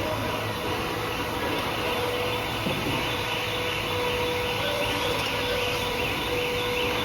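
Machine shop floor noise: a steady hum of running machinery with a constant mid-pitched tone, and a faint, quickly repeating higher chirping in the last couple of seconds.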